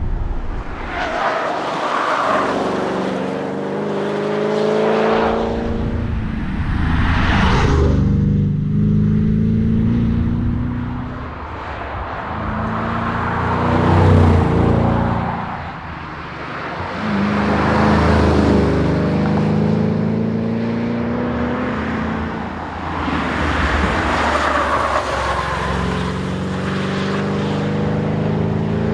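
Holden VE SS Commodore's 6.0-litre V8 driven hard on a tarmac rally stage. It revs up under acceleration again and again, the pitch climbing and then dropping back at each gear change or lift.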